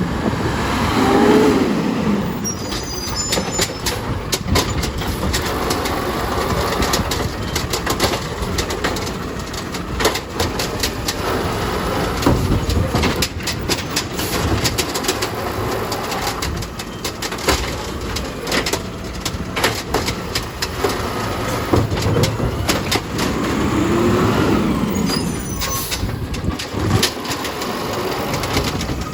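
Automated side-loader garbage truck collecting yard waste. Its diesel engine and hydraulics run throughout, with repeated knocks and clatter from the lifting arm and cart. The engine revs up twice, about a second in and again near the end, as the hydraulics drive the arm.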